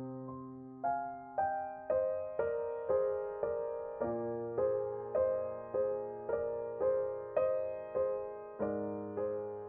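Background music: a slow, gentle piano melody of single notes, about two a second, over held low notes that change twice.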